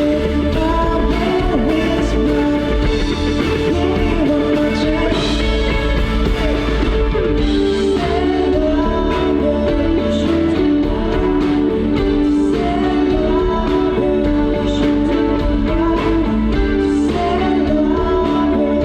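A live band playing a pop-rock song, with guitar and a sung vocal line over a steady beat.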